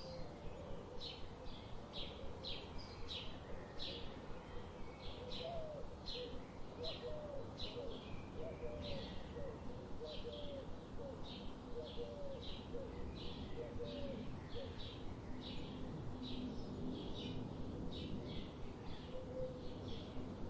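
Birds singing: a short high chirp repeated about twice a second throughout, with a series of lower, gliding whistled notes from another bird in the middle.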